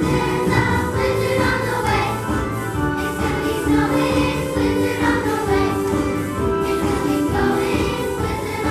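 A choir singing a song, several voices together on sustained notes.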